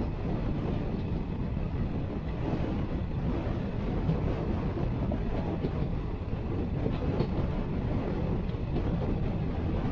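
Jan Shatabdi Express passenger train running along the track: a steady low rumble of wheels on rail with a few faint clacks.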